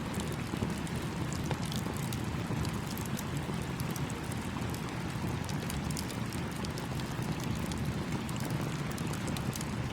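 Campfire crackling with many small, sharp pops over the steady rush of a flowing stream.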